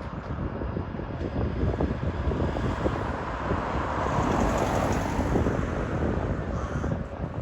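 A road vehicle passing, its engine and tyre noise swelling to a peak about halfway through and then fading, with wind rumbling on the microphone.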